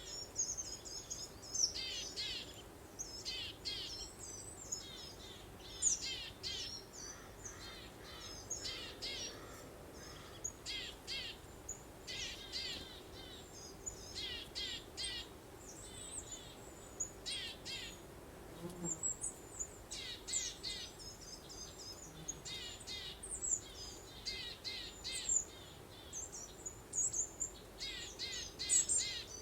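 Songbirds singing: quick runs of high chirps and trills, one phrase after another with short gaps, over a faint steady background hiss.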